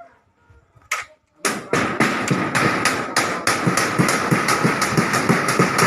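Rapid, evenly spaced hammer strikes, about four to five a second, over a steady high whine, typical of nailing down roofing. A single sharp click comes about a second in, just before the hammering starts.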